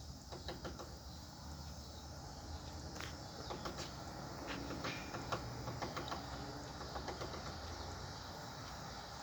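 Woodpecker pecking at a wooden deck: irregular sharp taps in short clusters, not a steady drumroll, over a low steady hum.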